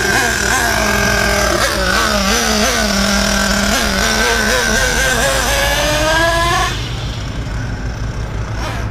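The .28 nitro engine of a 1/8-scale RC car running, its pitch dipping and recovering again and again with short throttle blips. The pitch climbs near the end, and the engine sound drops off abruptly about seven seconds in.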